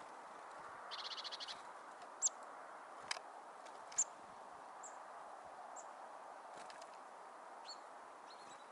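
Small songbirds calling: a quick buzzy rattle of about a dozen notes about a second in, then scattered short, high chirps, over a steady background hiss. A sharp click just after three seconds.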